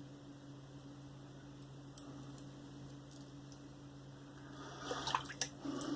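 Single-edge safety razor scraping through lathered stubble: a short run of scratchy, crackling strokes near the end, over a faint steady hum.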